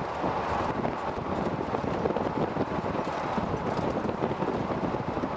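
Steady, rough noise of wind buffeting the microphone.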